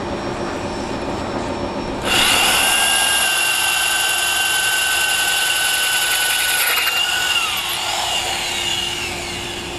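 Power drill fitted with a porcelain-tile drill bit, cutting into hard tile. A steady hum gives way about two seconds in to a loud, high-pitched whine that holds steady. Near the end the whine slides down in pitch and fades as the drill winds down.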